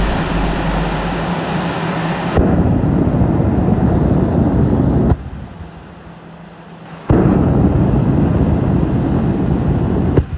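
A truck doing a burnout: the engine runs at high revs under a loud roar of spinning tires. The roar drops abruptly to a lower engine sound for about two seconds in the middle, then comes back just as suddenly.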